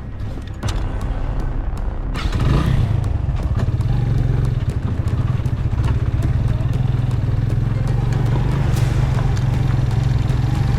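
Suzuki GS 150 motorcycle's single-cylinder engine running in low gear over a rocky dirt track, with knocks and rattles from the bike jolting over stones. The engine gets louder about two seconds in and then runs steadily.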